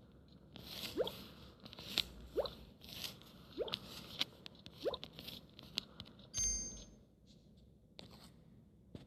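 Slime-simulator game sound effects: squishy plops, four of them with a short upward-gliding bloop, about one a second, among sharp clicky squelches, and a brief chime about six and a half seconds in.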